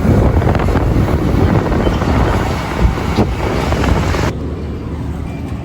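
Heavy wind buffeting the microphone while travelling along a road, a loud rushing rumble that drops away abruptly about four seconds in.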